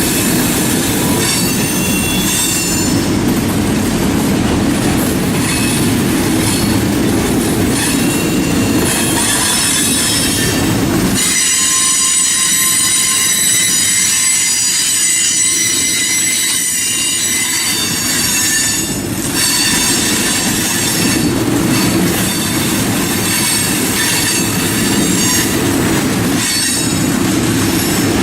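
Freight cars of a passing manifest train rolling through a curve, their wheels squealing in several high, steady tones over a low rumble of wheels on rail. The rumble drops away for several seconds partway through while the squeal carries on.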